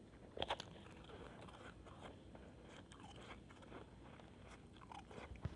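Faint crunching and crackling of a shaved-ice snowball, with one louder crunch about half a second in.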